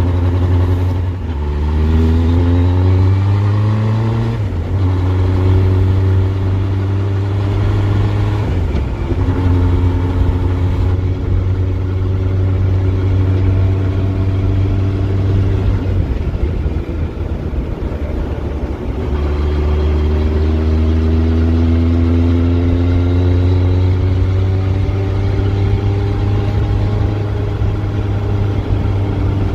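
Yamaha FZS1000 motorcycle's inline-four engine being ridden on the road: the engine note climbs and drops back with gear changes about four and nine seconds in, then holds steady. Past the middle the engine note gives way to rough road and wind noise for a few seconds, then it rises slowly again under acceleration toward the end.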